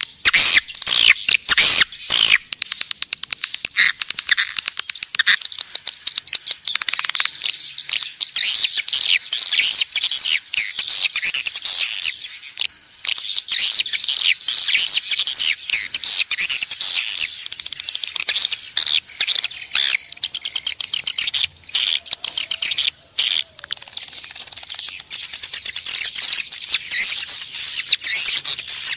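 Swiftlets twittering: a dense, unbroken run of fast, high chirps and clicks, with two brief breaks after about twenty seconds. This is a swiftlet calling sound of the kind played to lure the birds.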